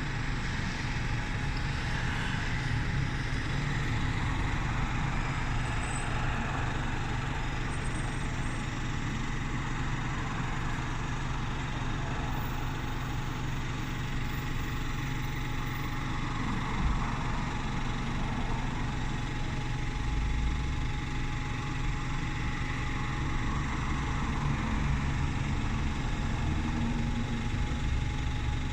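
Parked bus with its engine left idling, a steady low hum that stays even throughout. A single brief knock sounds about two-thirds of the way in.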